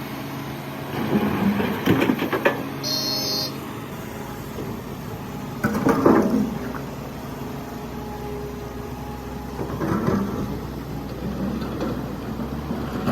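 Excavator's diesel engine running steadily, with three louder rough bursts of noise about a second in, around six seconds and around ten seconds, as the machine works.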